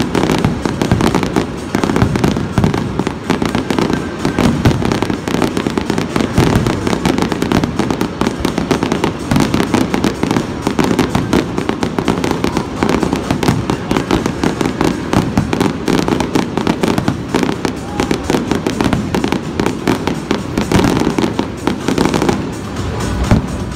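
Barrage of aerial firework shells bursting and crackling, a dense run of overlapping bangs packed close together.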